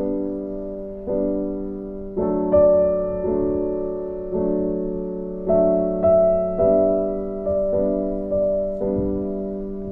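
Slow, gentle piano music: soft chords and notes struck about once a second, each ringing on and fading before the next.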